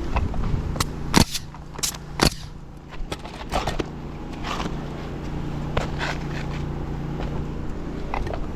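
Pneumatic roofing nail gun firing a string of sharp shots at irregular intervals, over the steady hum of a gas-powered air compressor.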